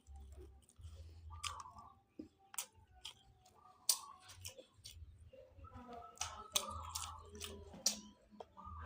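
Close-up mouth sounds of a person chewing and eating grouper fish: wet smacks and sharp clicks scattered irregularly, with a few louder ones about four, six and a half and eight seconds in.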